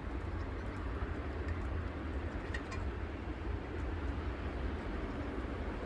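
Wind buffeting the microphone: a steady low rumble with a few faint clicks, as gusts pick up ahead of a thunderstorm.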